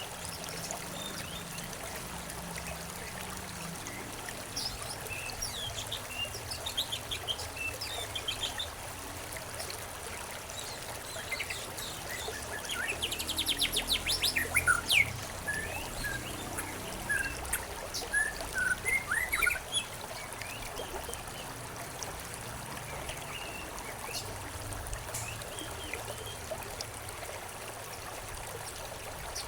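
Several small birds chirping over a steady trickling stream. About halfway through, a fast trill stands out as the loudest call.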